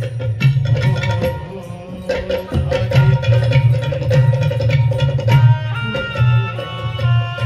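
Instrumental passage of Marathi folk devotional music: a dholki hand drum plays a steady rhythmic pattern of deep and sharp strokes, and past the middle a melody instrument joins with a run of stepped notes.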